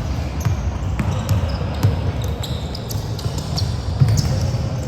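Basketball being bounced on a gym floor during a game: repeated low thuds among scattered sharp ticks and short high squeaks, over a steady hall din.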